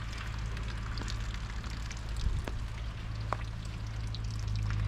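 Carbonated soda fizzing and dripping from shot-through soda cans, a steady hiss with scattered small crackles over a low hum.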